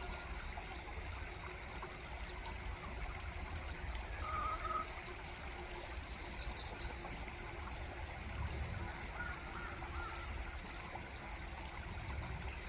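Quiet outdoor background of steady faint hiss and low rumble, with a brief faint call about four seconds in and a short run of faint, quick bird chirps about six seconds in.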